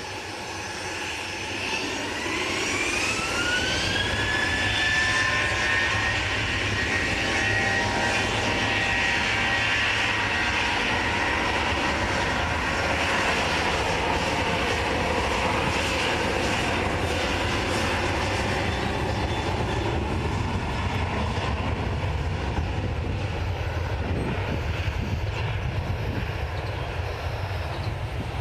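Airliner engines with a whine that rises over two or three seconds near the start, then holds steady over a loud, even engine noise.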